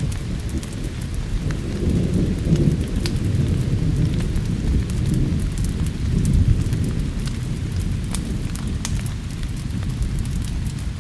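Low rolling thunder over steady rain, swelling twice, with scattered sharp crackles from a wood fire.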